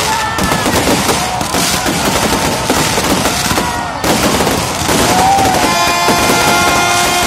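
Fireworks and firecrackers going off in a rapid, continuous crackle like a machine-gun volley. Steady pitched tones join in about six seconds in.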